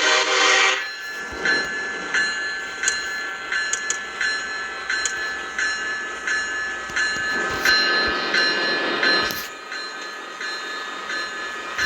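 Freight train rolling past, its wheels clicking repeatedly over the rail joints, over a steady high ringing tone. A short horn-like note sounds right at the start.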